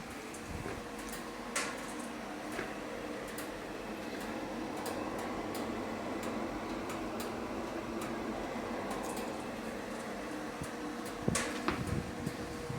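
A 10 kW pellet stove running: a steady fan hum with a faint held tone, scattered light ticks and clicks, and a short louder burst of knocks about eleven seconds in.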